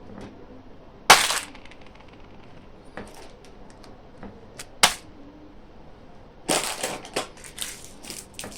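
Sharp snaps and crinkles of candy packaging being handled and opened: one loud snap about a second in, another just before five seconds, then a quick run of crinkling near the end.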